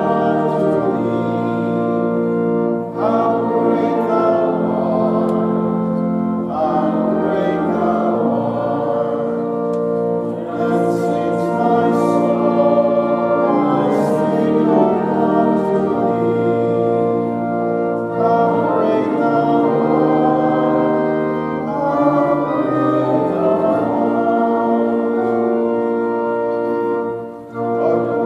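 Organ and choir performing slow sacred music, with held chords that change every few seconds.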